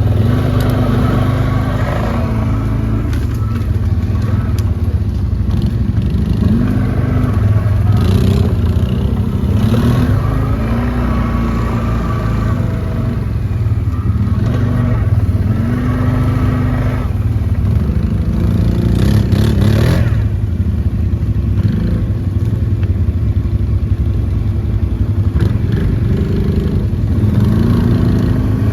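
Quad bike (ATV) engine running under way, its pitch rising and falling several times as the throttle is opened and eased, with some clatter from the machine.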